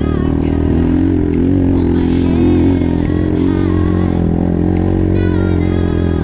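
Highper 150 pit bike's 150 cc engine running steadily, its pitch wavering with the throttle and rising a little about halfway through.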